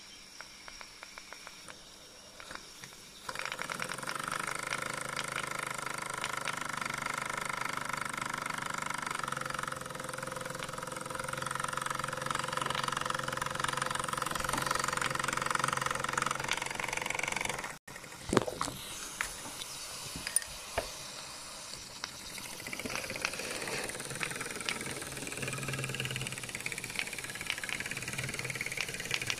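A miniature steam engine built for an HO-gauge live-steam locomotive, running steadily under steam with a mechanical whirr and hiss. The sound cuts off suddenly about 18 seconds in and resumes with irregular clicks and ticks.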